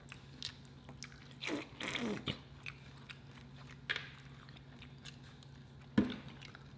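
Close-up eating sounds: biting and chewing fried food, with scattered small mouth clicks, a louder crunchy stretch around two seconds in and a sharp tap near the end, over a low steady hum.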